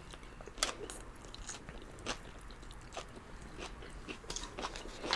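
Close-miked chewing and slurping of chow mein noodles, with scattered small wet mouth clicks.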